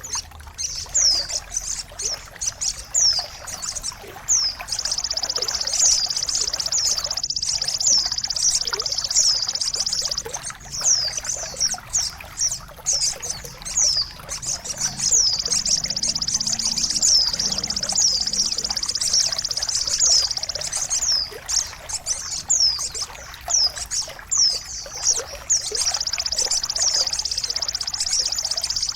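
Small songbird chirping: rapid, high, downward-sweeping notes repeated over a continuous high trill, typical of a bird-song training recording. Running, trickling water plays underneath.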